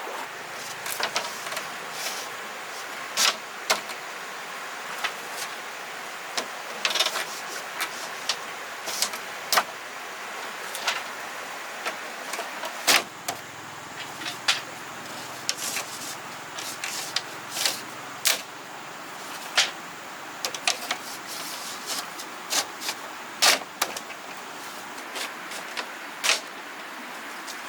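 Irregular sharp taps and knocks, a few stronger than the rest, over a steady hiss.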